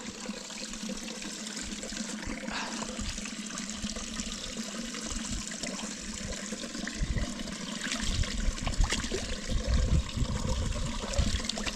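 Water running and trickling steadily in a small mountain stream. Low rumbling gusts come in on the microphone in the second half.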